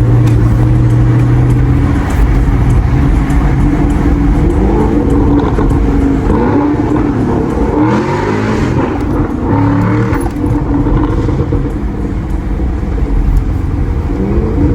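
Car engine running loudly, with its pitch rising and falling as it is revved.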